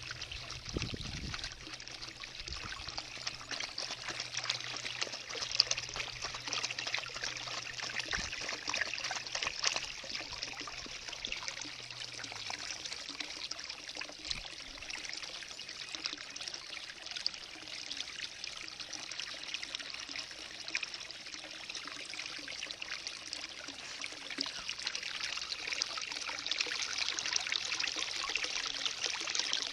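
Water running and trickling steadily. A low steady hum runs beneath it for about the first twelve seconds, then fades out.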